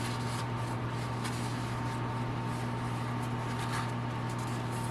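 A steady low hum runs throughout. Over it are a few faint rustles of a paper towel wiping old oil out of a dirt bike's oil filter cap.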